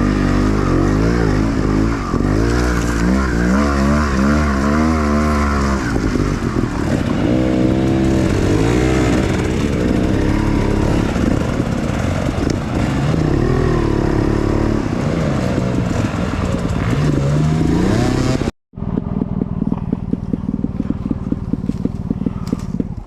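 Enduro dirt bike engine revving up and down, its pitch rising and falling again and again. About eighteen seconds in the sound cuts out for a moment, and a steadier engine sound with rapid even pulses follows.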